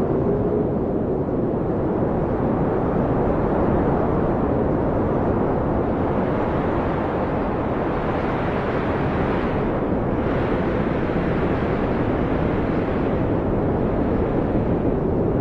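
Blizzard wind blowing steadily: a deep, even rush with a faint howl near the start and again near the end. It grows brighter for a moment about two-thirds of the way through, then drops back.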